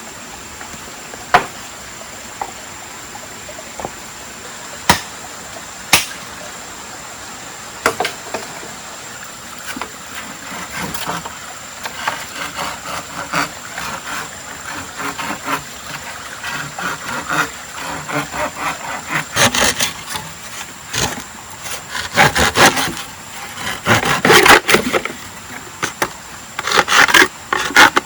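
Wood being worked by hand: a few separate sharp knocks in the first eight seconds, then a long run of scraping, rasping strokes that come in louder clusters toward the end.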